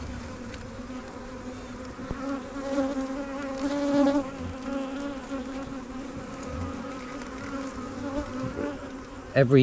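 Honeybees from an opened hive buzzing in a steady, many-voiced hum, which swells louder about three to four seconds in.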